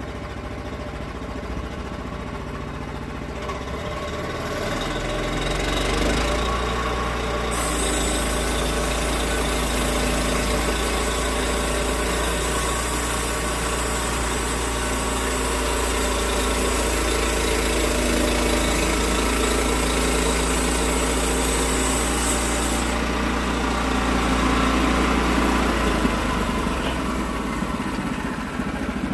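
Portable sawmill's engine idling, then throttled up about five seconds in and running steadily under load while the blade cuts through an oak log, with a hiss from the cut lasting about fifteen seconds; the engine drops back toward idle near the end.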